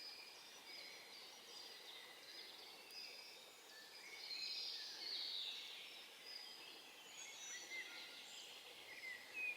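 Faint chorus of small songbirds chirping and twittering, with many short, high calls overlapping, a little louder about four to five seconds in.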